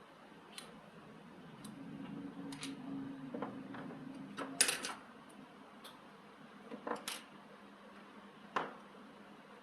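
Scattered sharp clicks and taps of small hard parts being handled, the loudest just before five seconds in. A low hum runs under them from about two seconds in and stops at that loud click.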